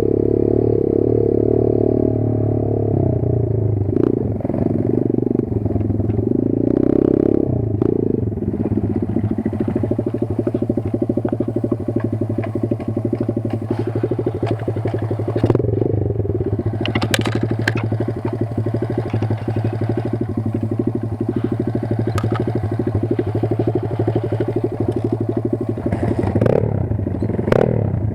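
Kayo 140 pit bike's single-cylinder four-stroke engine running under load, the revs rising and falling repeatedly, with a few sharp knocks from the bike over rough ground.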